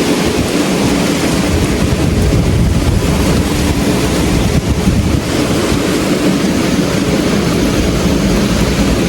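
Strong thunderstorm wind blowing hard and buffeting the microphone, with rain, as a steady loud rush with a heavy low rumble.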